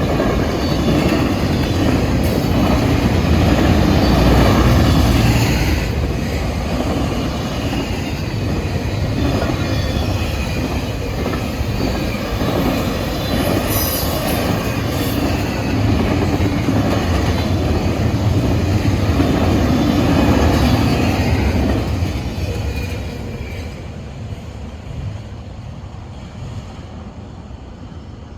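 Freight train cars rolling past with their wheels squealing and clacking over the rail joints. The sound fades away over the last several seconds.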